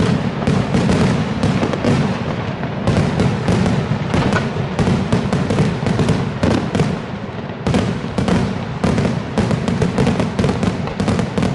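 Aerial fireworks display: a dense, continuous barrage of bangs and crackling from shells bursting in rapid succession, easing briefly for a moment about two-thirds of the way through before resuming.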